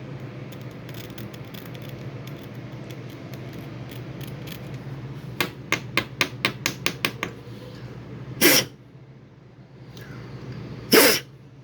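Plumbing work sounds: a quick run of about eight sharp clicks or taps from tools and fittings being handled, then two short, loud hissing scrapes, over a steady low hum.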